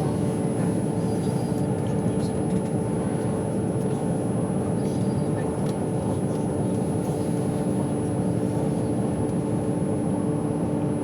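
Steady running noise of a moving intercity passenger train heard from inside the carriage: an even rumble with a low, constant hum under it.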